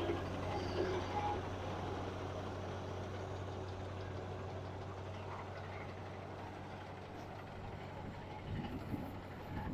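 John Deere 55 combine running steadily with its separator engaged, a low even drone. It has a knock and rattle that the owner puts down to the clean grain elevator not turning.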